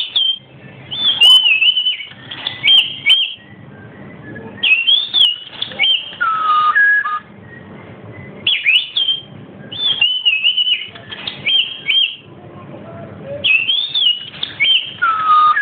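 Pet talking bird whistling about ten short, high, warbling phrases, one every second or two, with a few lower sliding notes among them.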